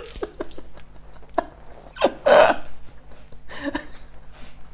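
A woman retching and vomiting: short gulping, gagging sounds and one loud heave about two seconds in.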